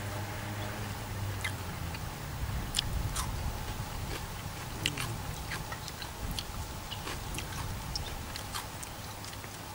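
A man chewing a mouthful of grilled lula kebab, with scattered short wet clicks and smacks of the mouth.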